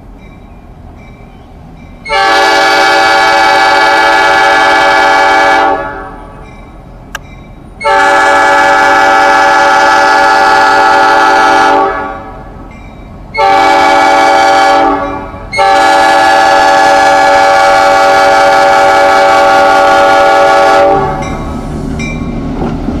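Locomotive air horn sounding a multi-tone chord in the grade-crossing pattern: two long blasts, a short one and a final longer one, over the low rumble of the passing train.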